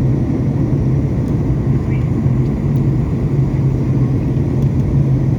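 Steady low drone of an airliner cabin in flight: jet engine and airflow noise heard from inside the cabin.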